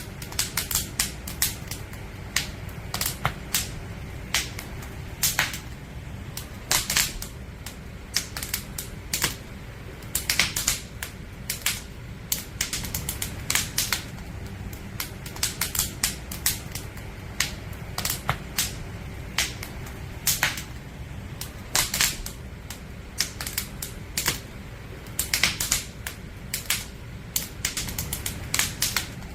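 Wood campfire crackling: irregular sharp pops and snaps from burning logs, often several in quick succession, over a steady low rumble.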